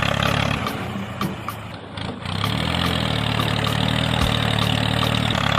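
Engine idling, dipping briefly about two seconds in and then running steadily.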